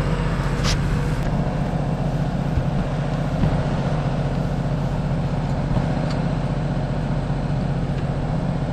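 Tractor engine running at a steady speed, a constant low hum. There is a single light click shortly after the start.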